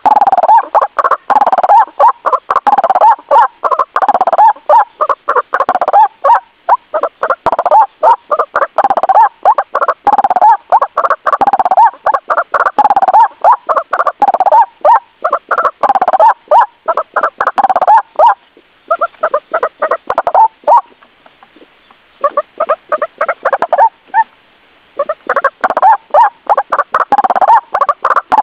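White-breasted waterhen (ruak-ruak) calling: a fast, unbroken run of harsh repeated notes, used as a bird-catcher's lure call, with a few short breaks about two-thirds through.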